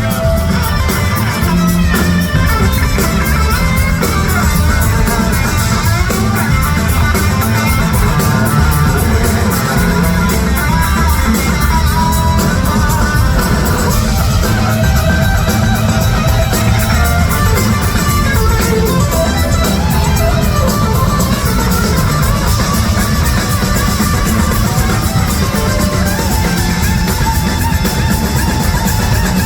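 Electric slide guitar playing a lead line with notes that glide up and down in pitch, over a full band with bass and drums.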